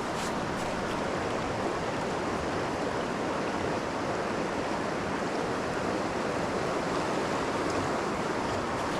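Small creek's water running steadily.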